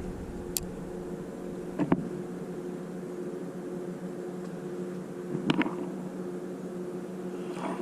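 A steady low mechanical hum, with a few light knocks, about two seconds in, five and a half seconds in and near the end.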